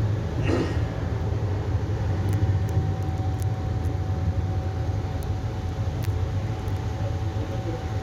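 Steady low rumble of the moving train heard from inside the Deccan Queen's Vistadome coach, with a faint steady hum above it and a few light clicks.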